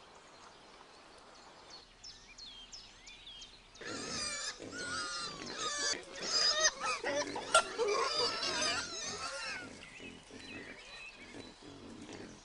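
Wild boar grunting and squealing in loud, pitch-bending calls from about four to ten seconds in, after a few faint high bird chirps.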